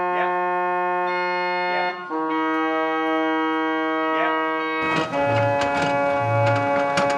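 Organ-like music of sustained chords that change about two seconds in and again near five seconds, where a fuller, deeper chord comes in, with light ticking over the chords.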